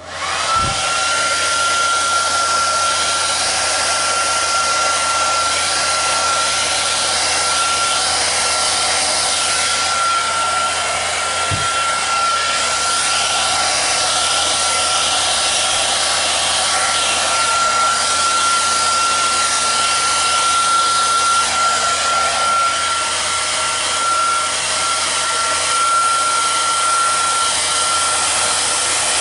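Hair dryer switched on and running steadily, blowing out thinned acrylic paint. Its motor whine rises briefly as it spins up, then holds one pitch over the rush of air.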